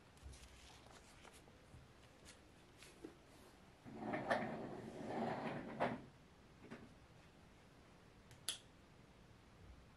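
Household handling sounds in a small room: scattered light clicks, a couple of seconds of noisy rubbing and shuffling about four seconds in, and a sharp click near the end, like a drawer or cupboard being worked.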